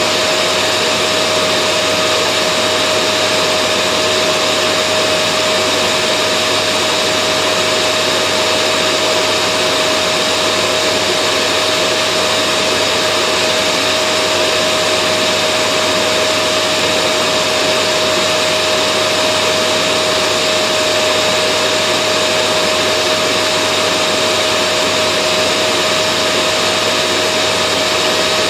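Vacuum cleaner motor running steadily: an even rushing hiss with a constant high whine, unchanging throughout.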